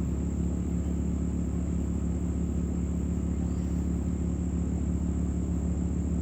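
A steady low mechanical rumble and hum that holds the same pitch and level throughout, with a constant thin high tone above it.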